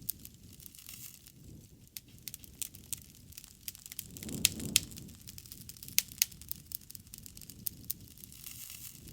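Wood fire crackling and popping, with irregular sharp snaps over a low, steady rush of burning. About four to five seconds in the low rush swells briefly, and two loud pops stand out.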